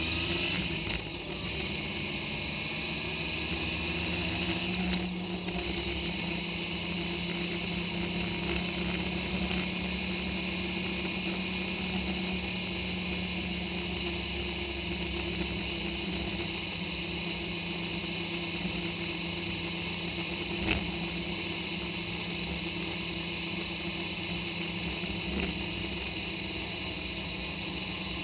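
Motorcycle engine pulling along a road, its pitch rising as it accelerates in the first second or so, then running steadily at cruising speed with wind and road noise. One sharp tick about two-thirds of the way through.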